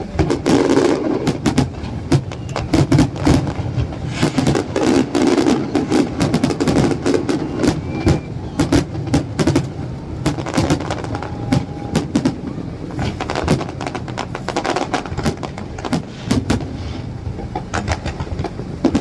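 Fireworks going off in a rapid, irregular series of sharp bangs and crackles over a continuous low rumble, many reports overlapping.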